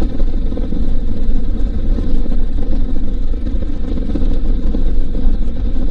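Honda VTX1800C cruiser's big V-twin engine running steadily on the move, a constant low rumble with a noisy haze over it.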